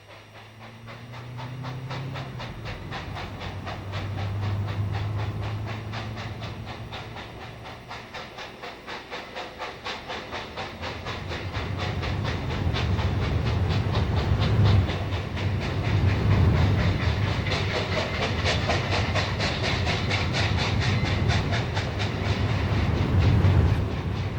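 Santa Fe 3759, a 4-8-4 Northern steam locomotive, working its train under power. Its exhaust makes a fast, regular chuff with hissing steam over a low rumble, and the sound grows louder as the engine draws nearer.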